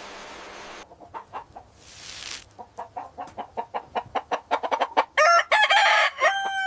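Chicken clucking in a quick, building run of short clucks, then a rooster crowing loudly near the end, its call rising and then held on one long note.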